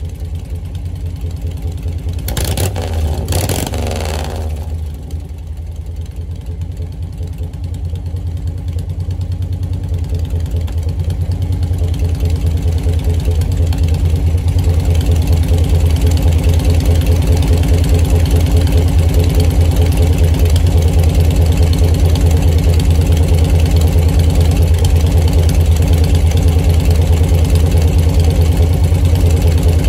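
1940 Harley-Davidson UL's 74 cubic inch flathead V-twin running at idle with an even, pulsing beat, and a short burst of noise about three seconds in. It grows louder between about ten and fifteen seconds in, then holds steady.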